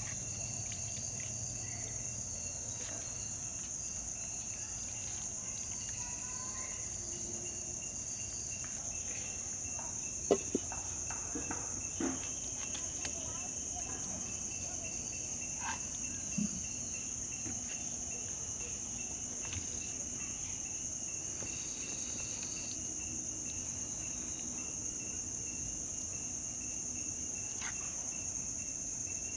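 A steady, high-pitched chorus of insects shrilling, with a few light knocks, the loudest about ten seconds in.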